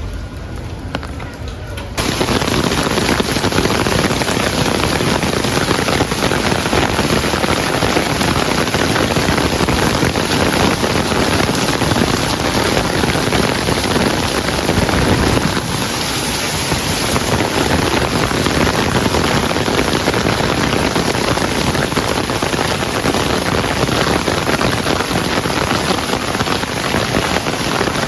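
Heavy rain falling, a dense steady hiss that jumps suddenly louder about two seconds in.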